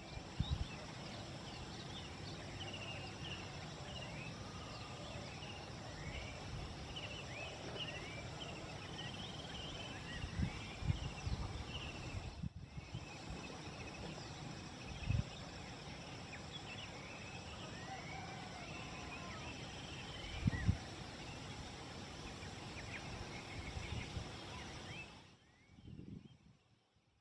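Several wild birds on a mountain slope chirping and singing in many short rising and falling calls, over a steady outdoor background. Now and then low thumps of wind hit the microphone.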